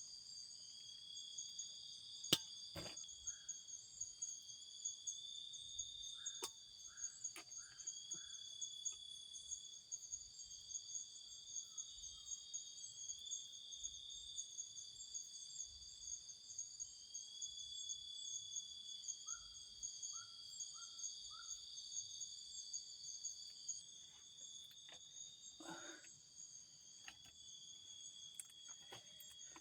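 Night-time chorus of crickets and other insects, steady and high-pitched, with one layer pulsing in repeated sliding chirps. A few short clicks and knocks sound over it, the sharpest about two seconds in. Twice a quick run of three or four lower chirps is heard.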